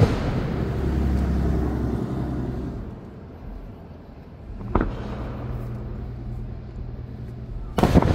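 Aerial firework shells bursting: a sharp boom right at the start that rolls away in a rumbling echo, a fainter bang about five seconds in, and a louder boom near the end, over a low rumble.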